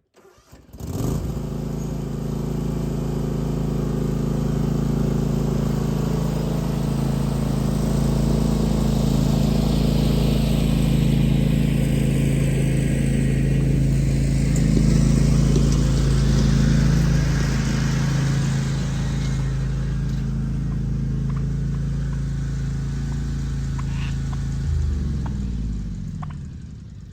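An engine running steadily, then slowing down and winding off near the end.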